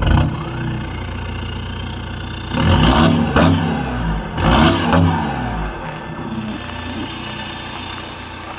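Audi A6 Avant's engine running at idle and revved twice in short blips, about three and about four and a half seconds in, then settling back to a steady idle.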